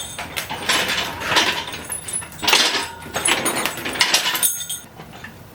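Metal chain and hooks rattling and jangling in several bursts, about one a second, with a light metallic ring: an engine hoist's chain being unhooked from an engine that has just been set on its mounts.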